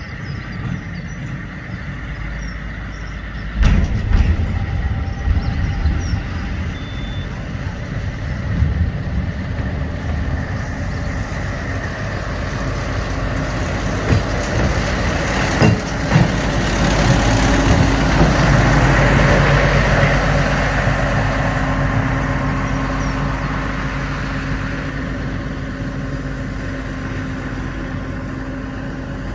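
A diesel locomotive working past with a train of bitumen tankers. Its engine grows louder to a peak about two-thirds of the way through and then fades, with a few sharp knocks along the way.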